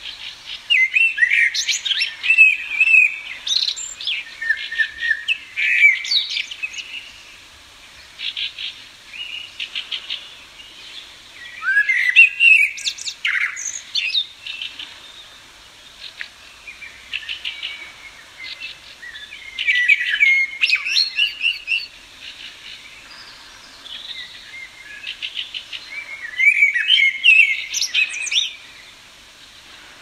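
Songbird singing in warbled phrases a few seconds long, at the start and about 12, 20 and 27 seconds in, with quieter quick chirps and trills between the phrases.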